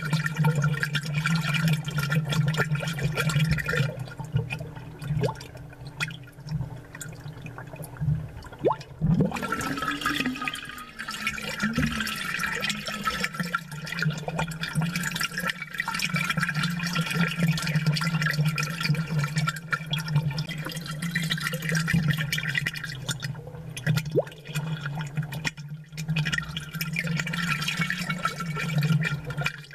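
Aquarium air bubbles and water gurgling steadily over a constant low hum. The bubbling eases for a few seconds and then comes back stronger.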